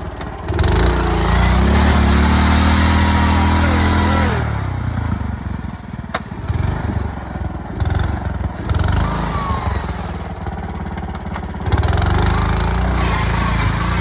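Sears lawn tractor engine running hard at high revs while the tractor ploughs through deep mud. It holds high about half a second to four seconds in, drops back, then opens up again near the end.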